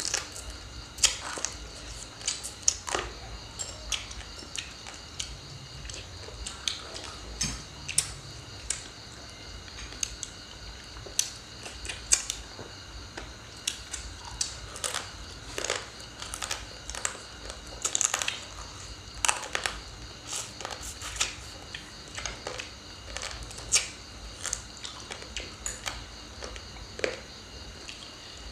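Close-miked eating sounds of papaya salad, sausages and fried spring rolls: chewing, crunching and crisp mouth clicks and smacks, irregular, a few a second at times.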